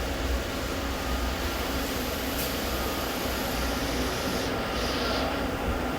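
Steady hum and drone of running shop machinery and ventilation equipment, with a faint high hiss coming in for a couple of seconds midway.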